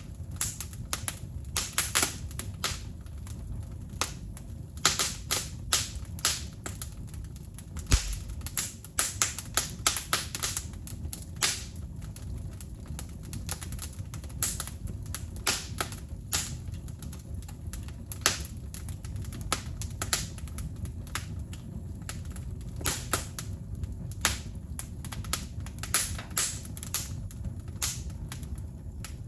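Wood fire crackling, with irregular sharp pops and snaps of burning wood over a steady low rumble.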